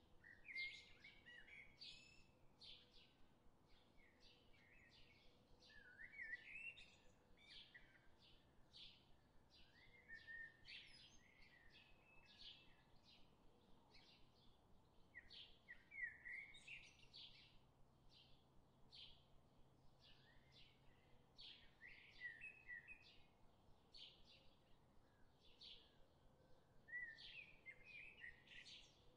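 Birds chirping and singing, faint: a steady run of short high chirps, with a longer warbling phrase every five seconds or so.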